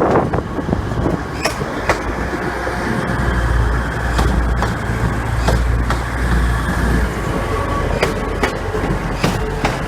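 Train moving along the station tracks: a low rumble that is heaviest in the middle, with scattered sharp clacks of wheels over rail joints.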